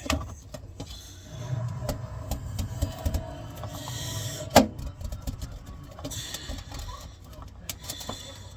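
Clicks, scrapes and knocks of hands and tools working on a sink faucet's fittings, with one sharp knock about four and a half seconds in.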